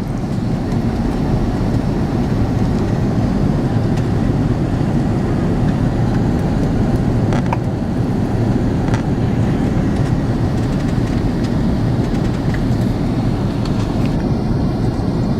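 Steady low rumble of an Airbus A330 airliner in flight, heard inside the passenger cabin: engine and airflow noise, with a few faint clicks.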